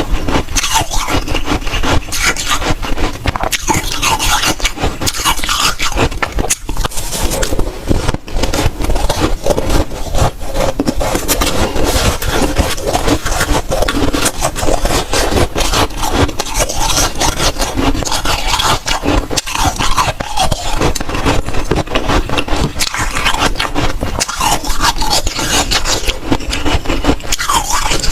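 Close-miked biting and chewing of soft, dry freezer frost: dense, continuous crunching and crackling.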